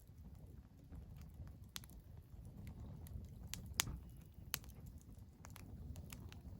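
Wood campfire crackling: irregular sharp pops and snaps over a low rumble, with one louder pop a little past the middle.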